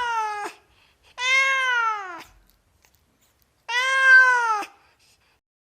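Domestic cat meowing: the end of one long meow, then two more, each about a second long, rising then falling in pitch, with short silences between them.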